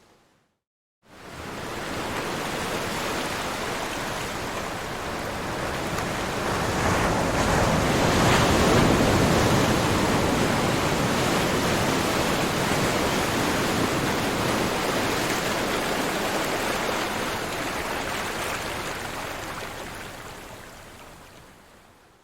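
Ocean surf as a steady rushing noise that swells slowly to a peak about a third of the way in, then gradually fades away, after a second of dead silence at the start.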